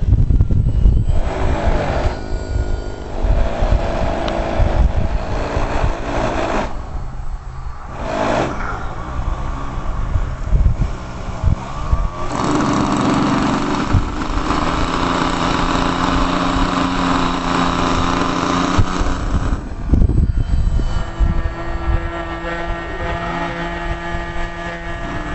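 Radio-controlled model airplane's motor and propeller running in flight, a steady hum that shifts in pitch with the throttle, over gusty wind on the microphone.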